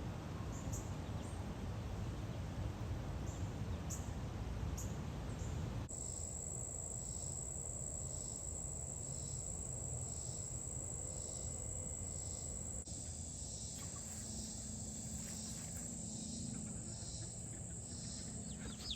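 Night insects such as crickets calling: a steady high trill with a pulsing chirp about once a second, over a low rumbling background noise.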